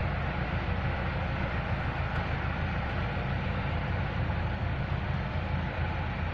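Heavy diesel road-paving machinery running steadily: an unbroken low engine rumble with no pauses or sudden noises.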